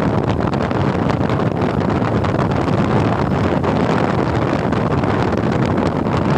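Steady wind rushing over the microphone on a moving Suzuki Gixxer motorcycle, mixed with its engine and road noise.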